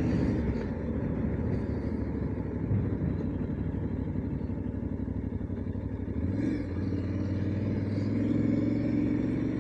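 Aprilia Tuareg motorcycle engine running under way at a steady low note. About six seconds in, a clearer engine tone comes in and rises slowly as the bike picks up speed.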